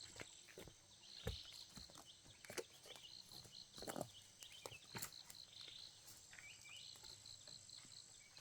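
Faint outdoor ambience: a steady high whine under repeated groups of quick, high chirps, with scattered light clicks and knocks.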